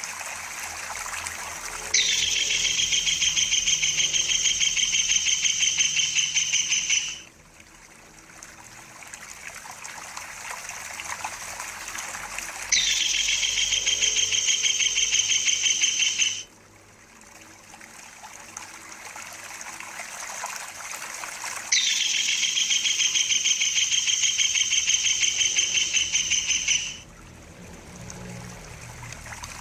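Kingfisher (tengkek udang) giving a high, rapid rolling trill three times, each lasting about five seconds and cutting off abruptly, over a stream trickling steadily.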